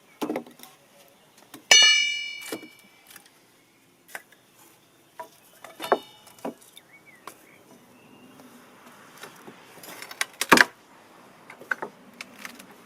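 Scattered knocks and clicks of hand work. About two seconds in comes a ringing metallic clang that fades over about a second, and a smaller ringing hit follows near six seconds. The loudest event is a sharp knock about ten and a half seconds in.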